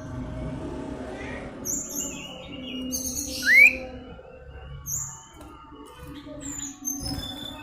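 Cipow (common iora) calling in short, high chirps, with one loud upward-sliding note about three and a half seconds in. A steady low hum lies underneath.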